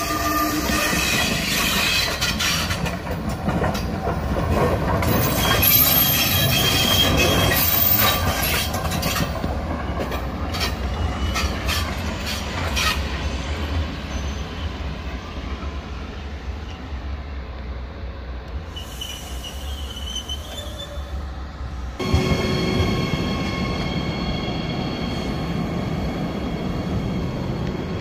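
Trains moving over the station's tracks, with wheels squealing and rail clatter. About six seconds before the end the sound changes abruptly to a steadier low rumble with a high, steady whine as another train approaches.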